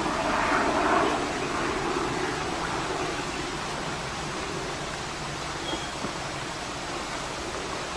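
Steady rushing outdoor background noise, slightly louder in the first second.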